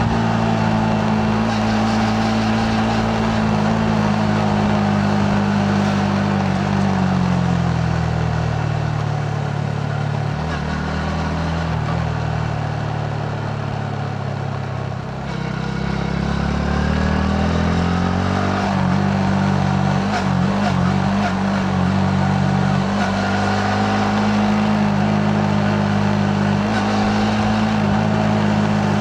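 Yamaha MT-15's single-cylinder four-stroke engine running on the move. Its note holds steady, falls over several seconds to a low point about halfway through, then climbs again and holds steady to the end.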